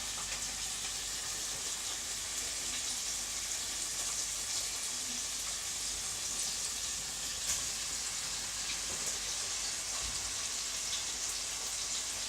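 Leek and bacon frying in a pan: a steady sizzle with scattered small crackles and one sharper pop about seven and a half seconds in.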